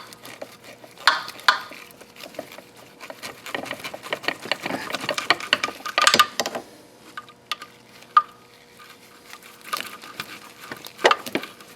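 Hand tools working on engine parts: a socket ratchet clicking in quick runs, with metal clinks and knocks of tools and bolts against the brackets.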